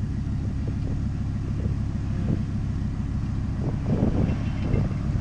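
A car engine idling with a low, uneven rumble. It swells briefly about four seconds in.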